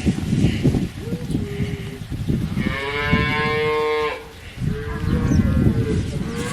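Cow mooing in long drawn-out calls, the loudest about three seconds in, over a steady low rumble.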